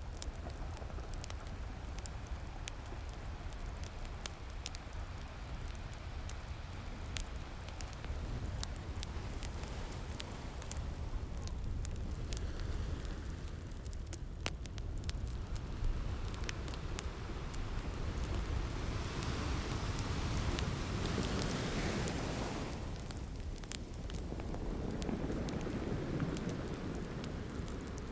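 Ocean waves washing in under a crackling wood fire: a steady rush of surf with many sharp crackles and pops scattered through it. The surf swells louder about two-thirds of the way in and again near the end.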